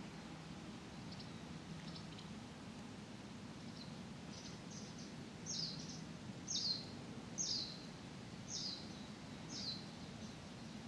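A small bird chirping: a few faint notes, then a run of louder short downward-sliding chirps about one a second in the second half, over a steady low background hum.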